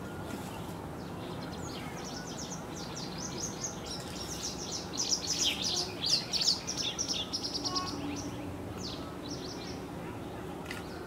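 Birds chirping: a run of rapid high chirps starts about two seconds in, peaks in the middle and thins out, over steady low background noise.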